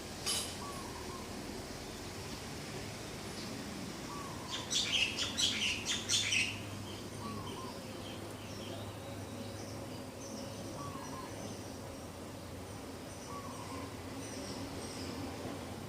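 Morning birdsong: a burst of quick, high chirping about four and a half seconds in, the loudest sound, over a short lower call that repeats every few seconds and fainter distant chirps.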